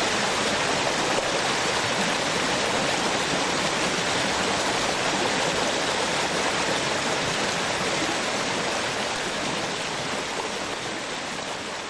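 Small waterfall on a stream, water spilling and rushing in a steady, even wash that begins to fade near the end.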